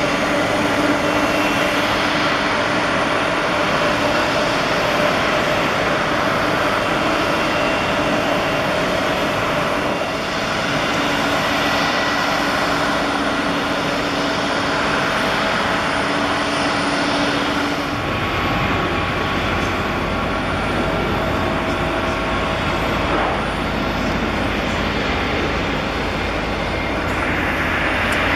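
Jet airliner engines running: a steady loud noise with several whining tones. A deeper rumble joins about two-thirds of the way through.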